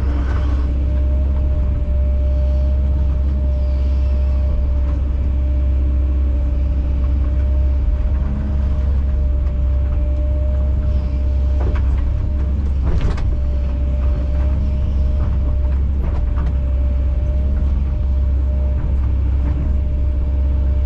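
Kobelco SK210 excavator's diesel engine running steadily under a steady whine, with a few sharp knocks as the machine works rock. The loudest knock comes about thirteen seconds in.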